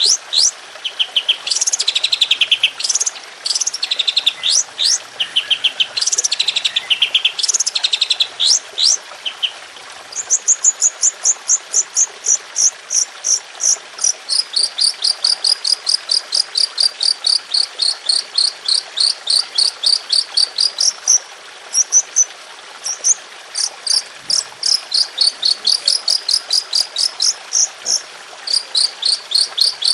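Songbird song of the kind used to tutor caged birds. A varied high twittering for about the first ten seconds, then long runs of rapid, evenly repeated high notes, about three to four a second, with short breaks between runs.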